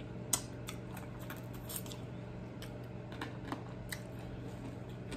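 Close-miked chewing of crispy fried chicken wing: irregular small crunches and wet mouth clicks, over a steady low hum.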